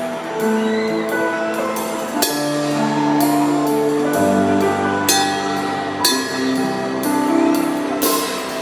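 Live band playing a song's instrumental intro: sustained melody notes and chords over drums, with cymbal crashes every second or two.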